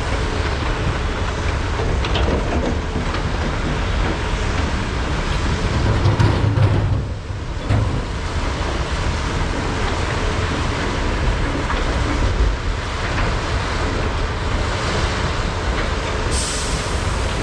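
Large hydraulic mining excavators working, their diesel engines running under load in a continuous dense rumble that swells briefly about six seconds in. A hiss starts near the end.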